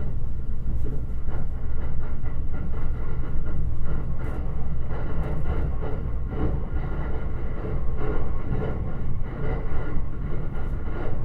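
Shirasagi limited-express electric train running at speed on the rails, a steady low rumble of wheels and running gear with a faint steady hum over it and occasional light knocks, heard from inside the passenger car.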